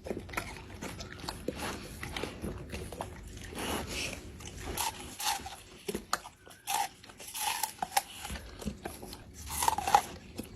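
A dog chewing something, with irregular crunches and clicks.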